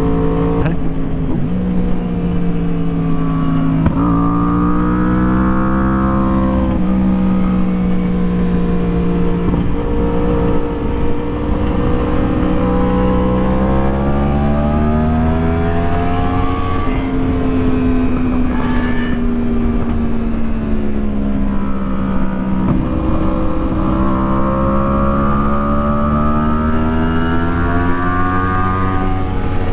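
Inline-four sport bike engine running at road speed, its pitch drifting slowly up and down with the throttle, with a sudden change in pitch about four seconds in.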